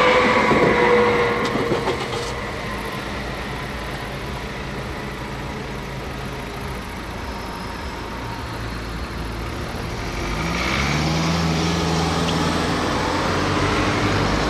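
Tail of a double-deck S-Bahn electric train passing over a level crossing, its whine falling in pitch and dying away in the first two seconds. Then car engines idling steadily at the crossing; about ten seconds in, an engine rises in pitch and settles to a steady, louder run.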